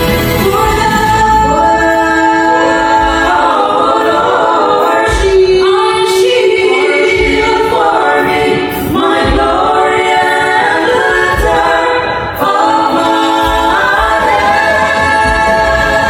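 A group of singers in vocal harmony, several voices holding and changing notes together, a lead with backing singers.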